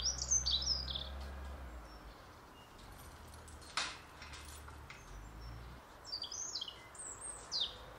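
A small songbird singing quick phrases of high, falling chirped notes, twice: once at the start and again about six seconds in, over a steady low rumble, with a single sharp click about four seconds in.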